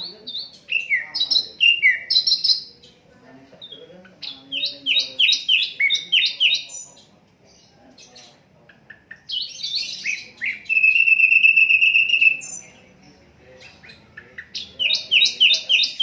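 Sikatan londo flycatcher singing: bursts of rapid, high, downward-sliding whistled notes, three phrases with short pauses between them. The middle phrase ends in a long, even, high trill.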